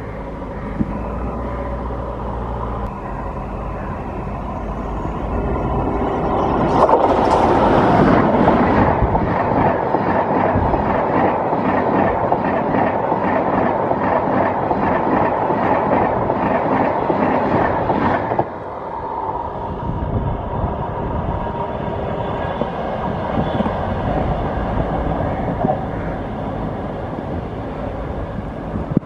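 Express passenger train rumbling past at high speed, its wheels clacking in a steady rhythm over the rail joints. The sound jumps up sharply about a quarter of the way in and drops suddenly a little past halfway, leaving a lower rumble as the train runs away.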